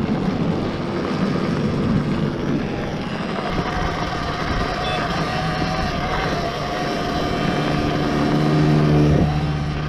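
Electric enduro motorcycle riding over loose rocks, its motor whine mixed with tyre and chassis rattle and wind on the microphone; a steady pitched hum grows louder towards the end.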